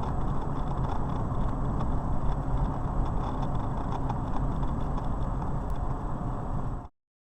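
Steady rumble of a car's engine and road noise while driving, cutting off abruptly near the end.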